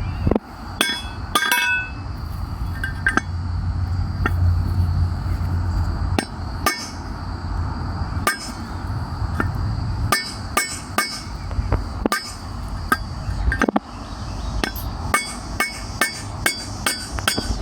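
Hammer driving a chisel against a lawn tractor front wheel's metal bushing to knock it out of the rim: repeated sharp metal-on-metal strikes with a short ring. The strikes are irregular at first and come quicker, about two a second, near the end.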